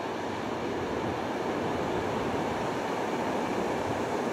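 Steady rushing rumble of a freight train's wagons rolling away down the track after passing.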